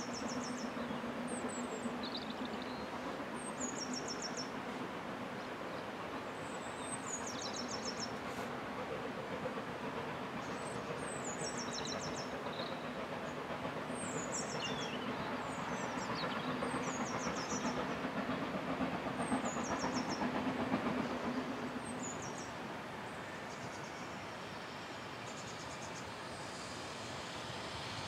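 A small songbird sings short, high, descending trills every couple of seconds over a steady low background rumble. Near the end a distant steam train is heard faintly coming closer.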